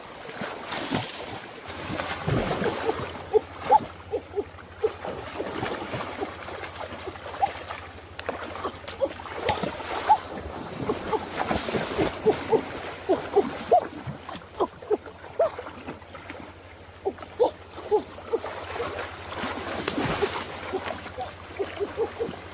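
Water splashing and trickling, with many short, quick plops and gurgles throughout, and a steady low hum that comes in about two seconds in.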